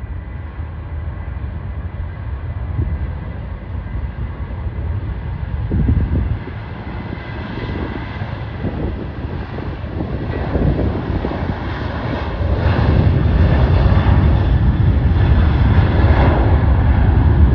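Jet airliner engines: a deep rumble with a faint steady whine, growing louder over the second half.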